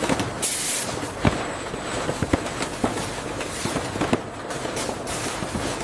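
Packaging-line machinery clattering: irregular sharp knocks and clacks over a steady mechanical running noise, with a short hiss about half a second in.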